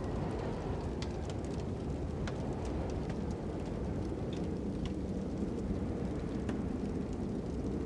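Ambient fire-and-wind soundtrack: a steady low wind rumble with a crackling fire, sharp irregular pops and snaps scattered over it.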